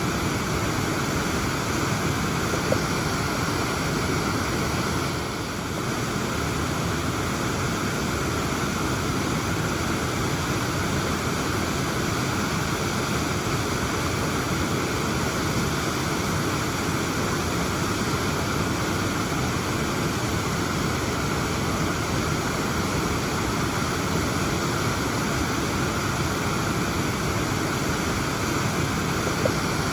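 Waterfall rushing: a steady, dense roar of falling water, with a brief slight dip about five seconds in.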